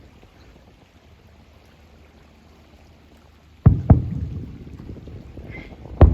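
Aerial fireworks shells bursting across a harbour: after a few quiet seconds, two booms in quick succession, a rumbling tail, then another loud boom near the end.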